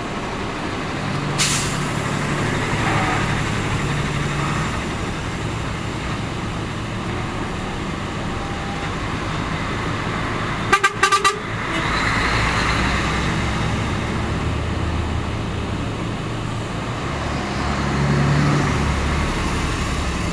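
Road traffic with vehicle engines running and a quick burst of four short horn toots about halfway through. Low engine rumble picks up after the toots.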